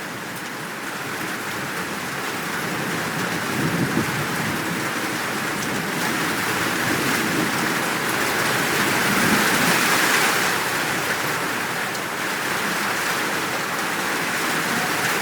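Steady heavy rain, swelling louder about two-thirds of the way through, with faint low rumbles of distant thunder underneath.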